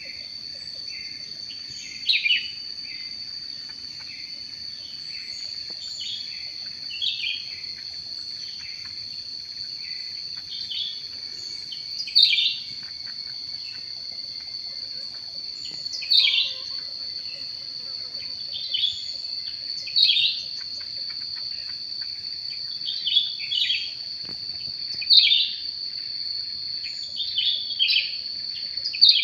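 Bird calls: loud short chirps that fall in pitch, repeated every few seconds, with fainter rapid chirping in the first few seconds. Under them runs a steady high-pitched insect drone.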